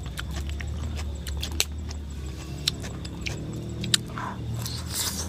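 Wet chewing clicks and lip smacks as a piece of grilled meat is bitten and eaten, over a steady low hum.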